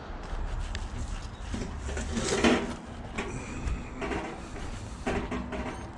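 Scrap metal pieces being handled and shifted, with a louder scrape or clatter about two and a half seconds in, over a steady low rumble.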